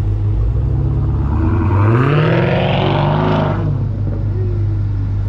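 Dodge Charger SRT Hellcat Redeye's supercharged V8 idling with a low rumble, then revving up about a second and a half in and dropping back down about two seconds later.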